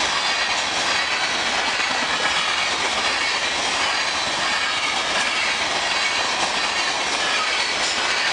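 Covered hopper cars of a freight train rolling past: a steady rush of steel wheels on rail, with occasional clicks from the wheels.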